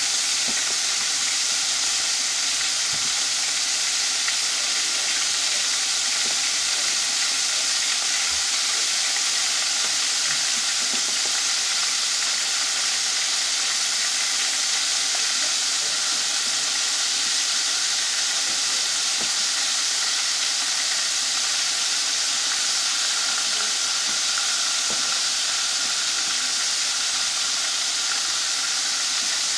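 Floured chicken tenders frying in hot oil in a skillet: a steady, even sizzle with a bright hiss.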